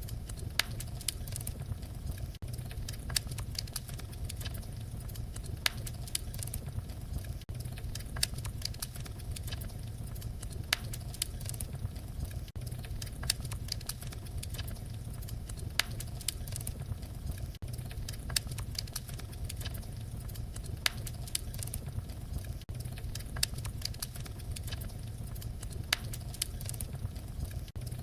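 Wood fire crackling: a steady low rumble of flames with frequent sharp pops and snaps scattered irregularly throughout.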